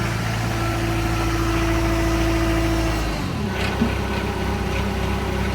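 Moffett M5500 truck-mounted forklift's engine running, with a steady whine held over it. About three seconds in the whine stops and the engine note drops lower, and a small click follows shortly after.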